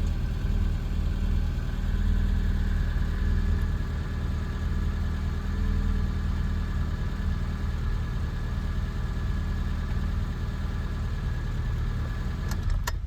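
Classic Mini's 1275 cc A-series MPI engine idling steadily. A few clicks come just before the end, and then the engine cuts off suddenly.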